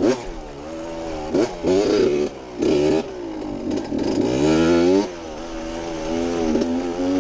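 Two-stroke Suzuki RM dirt bike engine being ridden, its revs rising and falling again and again with several hard bursts of throttle, through a muffler taken from an Apollo 125 and adapted to fit.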